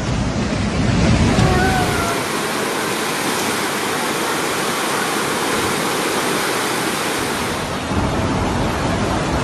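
Floodwater rushing, a steady loud rush of water. The sound changes abruptly about a second in and again near eight seconds, as the footage cuts from one flood scene to another.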